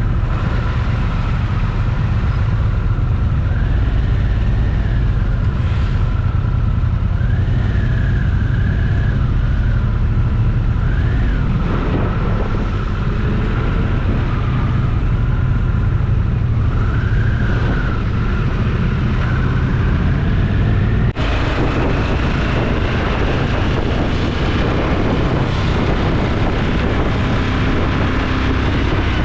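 Motorcycle engine running steadily while riding, with a wavering whine above the engine note. About two-thirds of the way through the sound changes abruptly and more wind hiss comes in.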